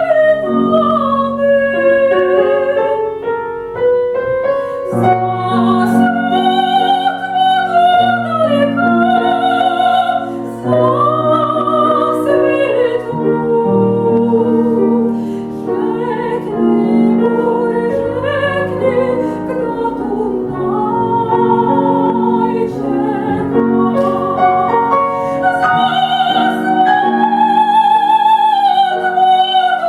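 Classical female voice singing an aria or art song with vibrato on long held notes, accompanied by a grand piano.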